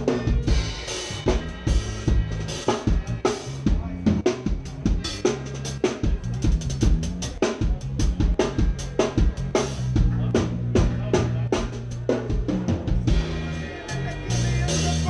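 Forró band playing live: a drum kit beating a steady rhythm of kick, snare and cymbal hits over a bass line, with no singing.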